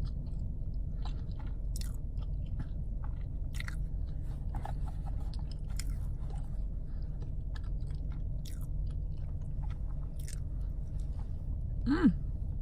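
Close-up chewing and biting of Chick-fil-A chicken minis, with many small wet mouth clicks over a steady low hum. Near the end, a brief rise-and-fall sound from the voice is the loudest moment.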